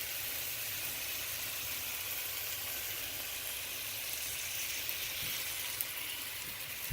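Cubed chicken breast sizzling in olive oil in a wok, a steady hiss, with a couple of faint light clicks late on.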